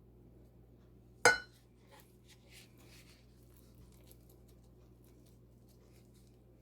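A single sharp clink of kitchenware being knocked or set down, with a brief ringing tail, about a second in; after it only a few faint small clicks of handling.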